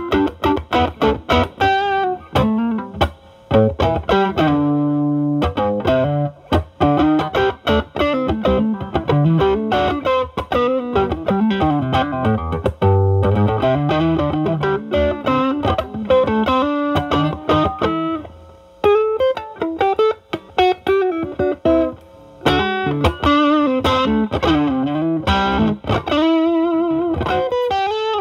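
Overdriven electric guitar: a Stratocaster with single-coil pickups through a Ceriatone Centura Klon-clone overdrive at gain 8 into a Marshall Valvestate's drive channel, with the guitar's volume rolled back to clean up the drive. It plays bluesy single-note lead lines with bends and a few longer held notes, about five seconds in and again near thirteen seconds.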